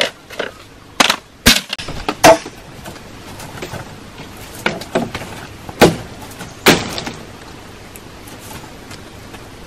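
Wood being struck or broken: a run of sharp, irregular knocks and cracks, about eight in all, the loudest about two and a half and six seconds in.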